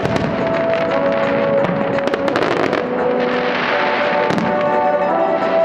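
Aerial fireworks shells bursting in several sharp bangs, with a crackling hiss in the middle, over steady music.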